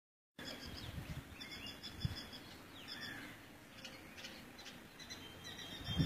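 Birds chirping: quick runs of short high notes and a few brief falling calls, over a low rumble.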